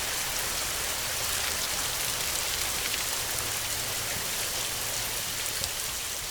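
Heavy, steady rain falling, with many fine drop ticks in the hiss and a low steady rumble underneath.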